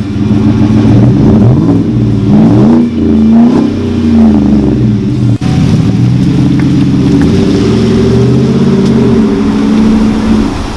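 2017 GMC Sierra's 6.2-litre V8 running through a Borla cat-back dual split exhaust. It is revved briefly a few times between about two and four seconds in, then holds a steady idle.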